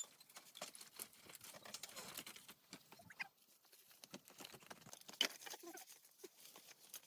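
Irregular light tapping and rustling, with a few short animal calls.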